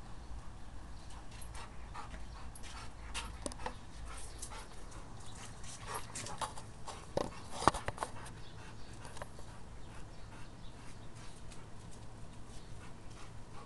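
A dog panting in quick, even breaths, about three a second, with a few sharp clicks and taps in the middle, the loudest about eight seconds in.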